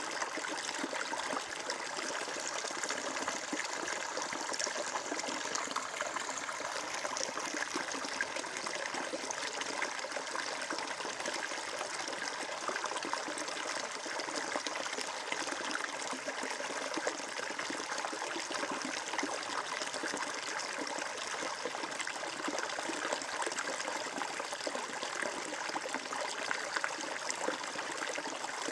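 Water flowing and trickling in a steady, even stream, with no change in strength.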